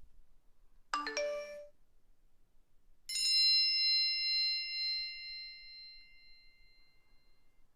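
Two short sound-effect clips. About a second in comes a brief chime of a few quick notes. About three seconds in comes a single bell-like ding that rings out and fades over several seconds.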